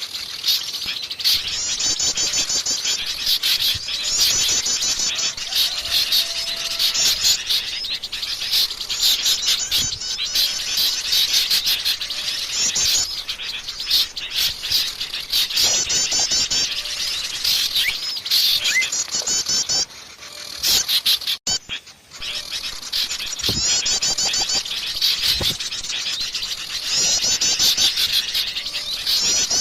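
A busy chorus of many small songbirds chirping and calling over one another, with fast high trills coming back every few seconds. It is a mixed bird-lure recording meant to draw in small birds. The sound drops out briefly about two-thirds of the way through.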